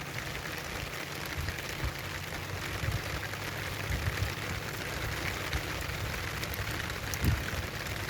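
Steady rain falling, an even hiss, with a low rumble beneath and a single soft thump about seven seconds in.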